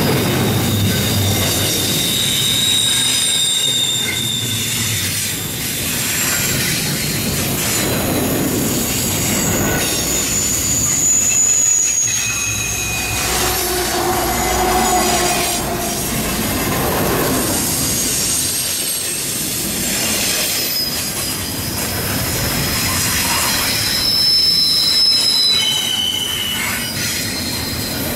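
Double-stack intermodal freight train rolling past: steel wheels squealing against the rails in thin high tones that come and go, over the steady rumble and clatter of the cars. A mid-train GE ET44AH diesel locomotive passes about halfway through.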